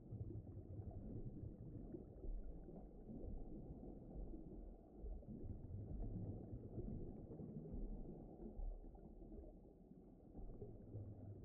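Muffled, low rumbling ambience of the deep ocean, a dark wash of noise with nothing bright above it, swelling and easing slowly, with a dip about five seconds in and again near the end.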